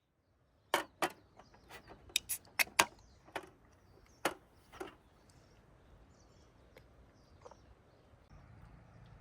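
A series of sharp clicks and knocks, about a dozen in the first five seconds, the loudest clustered near the middle of that run, then only a few faint ticks over quiet outdoor background.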